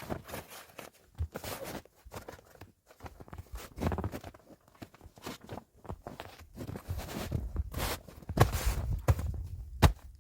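Footsteps, irregular crunching steps, with a few sharper clicks near the end.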